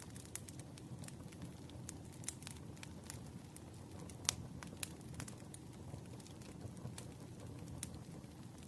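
Burning firewood crackling: a low steady rumble of flames with irregular sharp pops and snaps, one louder pop a little past the middle.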